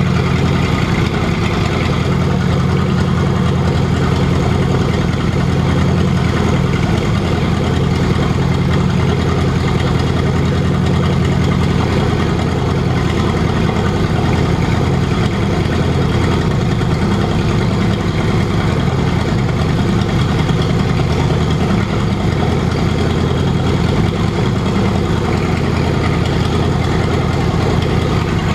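ZIL-131 V8 petrol engine running steadily at idle on a test stand, with a slight change in its low note about twelve seconds in.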